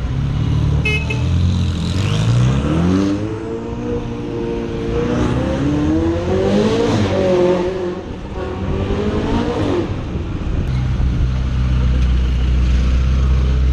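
Car engine revving: its note climbs over a few seconds, holds high, then falls back to a steady low rumble.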